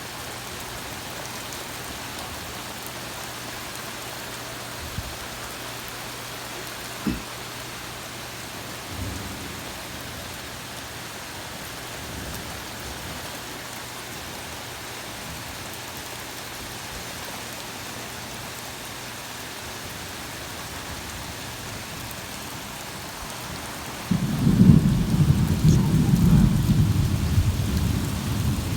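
Heavy thunderstorm rain falling steadily, with a few short thumps in the first ten seconds. About 24 seconds in, a loud clap of thunder breaks in suddenly and rolls on as a deep rumble.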